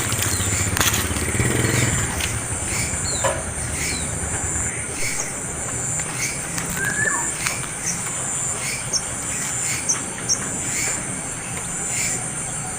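A young bird giving repeated short begging chirps, about one to two a second, calling to be fed more.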